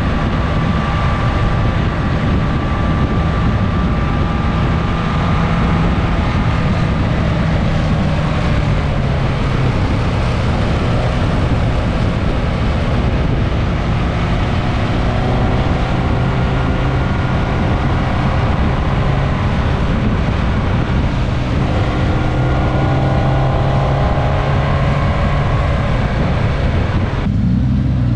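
Suzuki GSX-S 1000S Katana's inline-four engine running at a steady cruise, heard onboard under heavy wind and road noise. Its pitch stays nearly constant throughout.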